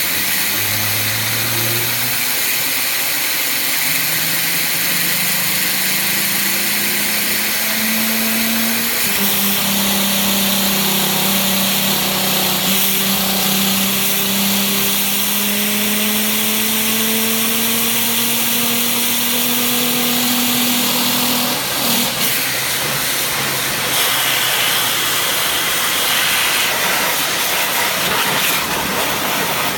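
High-pressure washer jet spinning the knobby off-road tyre of a Kawasaki KLX110 dirt bike, so that the tread blocks make an engine-like tone over the hiss of the spray, like a V8 accelerating. The tone climbs slowly in pitch, then breaks off about two-thirds of the way through, leaving mostly the hiss of the spray.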